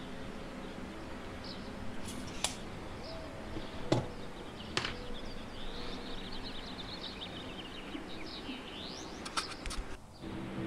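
Small birds chirping again and again, with a few sharp clicks and taps from tools and the metal mounting bar being handled, over a steady low hum.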